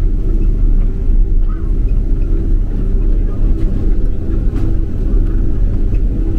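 Boeing 767-300 cabin noise heard from inside the passenger cabin: a steady low rumble of the engines and airflow, with a few faint humming tones in it.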